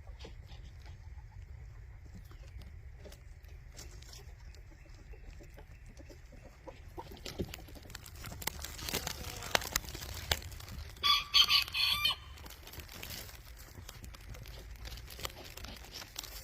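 Chickens clucking, then a rooster crows once, loud and about a second long, around eleven seconds in.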